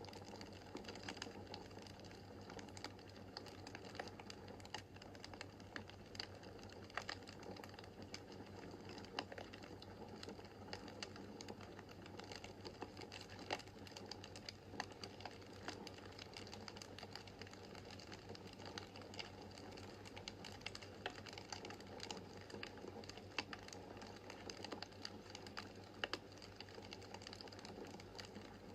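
Wood fire burning in a fireplace: a steady low hiss of flames with frequent small irregular crackles and a few sharper pops.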